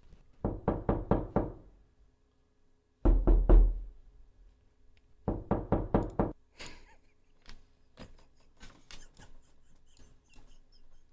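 A knocking sound effect, knuckles rapping on a door, played back as a fake knock. It comes in three bursts of about four to six quick raps, spaced two to three seconds apart. After the bursts, only faint scattered taps are heard.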